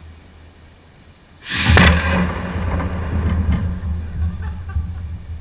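A power hammer press strikes an orange with one sudden loud blow about a second and a half in. After it the machine keeps running with a steady low hum.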